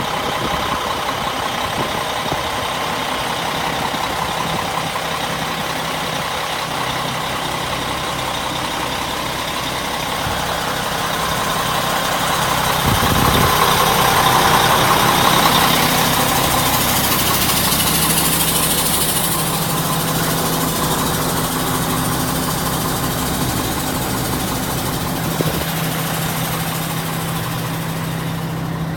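1999 Mack RD690S truck's diesel engine running at idle, swelling louder for a few seconds around the middle before settling back to a steady idle.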